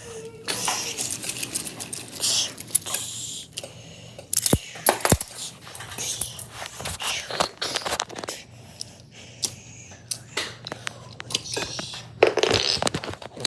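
Wooden toy train cars and track pieces clattering and knocking together, many irregular clicks with scraping and rustling between them.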